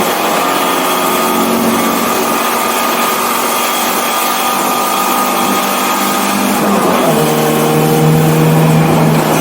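BMW 318i's four-cylinder engine running hard on track. Its pitch climbs slowly for several seconds, then drops suddenly about seven seconds in and holds steady at the lower pitch, a little louder.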